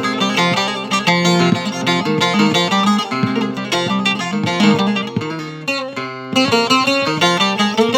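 Bağlama (Turkish long-necked saz) played solo in an improvised passage: quick runs of plucked notes mixed with strums, thinning out briefly about six seconds in.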